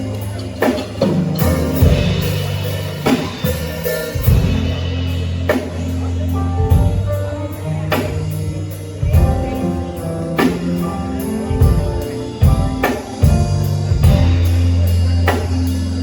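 Live band playing: drum kit hits over deep held bass-guitar notes and sustained keyboard chords.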